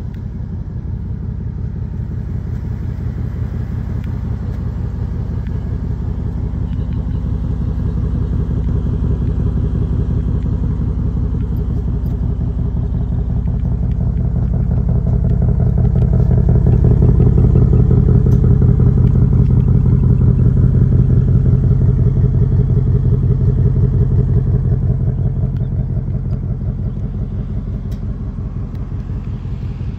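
2024 Ford Mustang GT's 5.0-litre V8 idling steadily with a low exhaust rumble, which grows louder about halfway through and fades again near the end.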